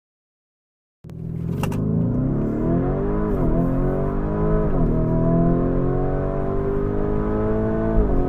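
Sports car engine accelerating hard through the gears. It starts about a second in, and its pitch climbs steadily, then drops sharply at each of three upshifts.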